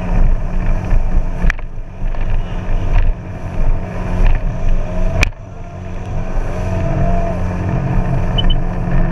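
Jet ski engine running steadily, with a sharp click about a second and a half in and another about five seconds in.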